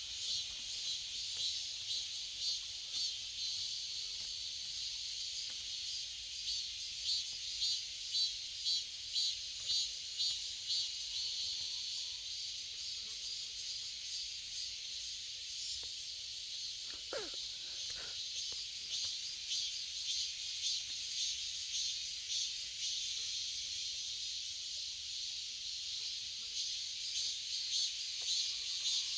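Cicadas buzzing: a steady, high-pitched drone with a quick pulsing running through it.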